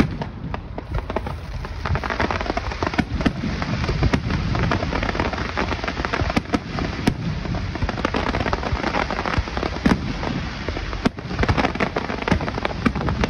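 Fireworks display going off in a dense barrage: constant crackling with many sharp bangs on top of it.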